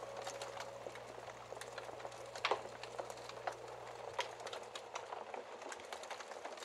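Wood fire crackling, with irregular small pops and snaps and one louder pop about two and a half seconds in. The faint tail of a single sustained musical note fades out early on.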